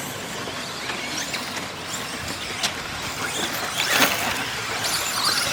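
A pack of radio-controlled 2WD short course trucks racing, their motors whining in short rising and falling glides over a steady noise, with a sharp, louder noise about four seconds in.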